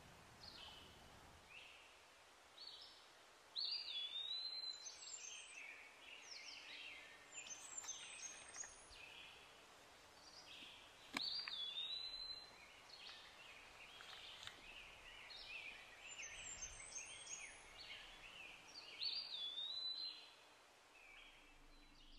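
Songbirds singing faintly over a steady outdoor hiss, with one bird repeating the same short phrase three times, about every seven to eight seconds.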